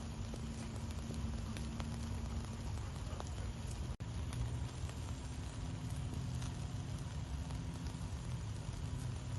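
Wood fire burning in a fireplace: a steady low rumble of flames with scattered sharp crackles and pops. The sound cuts out for an instant about four seconds in.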